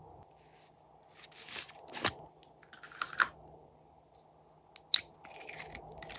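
Hands working slime, with crackly, tearing-like sounds and scattered clicks. A sharp click comes about five seconds in.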